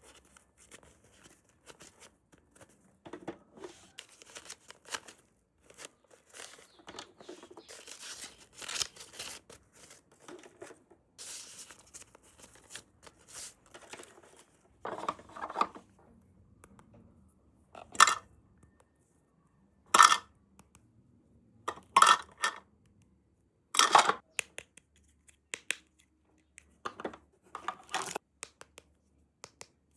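Toy packaging being handled and torn, with rustling and crinkling through the first half. In the second half come about six short, loud sounds, roughly two seconds apart.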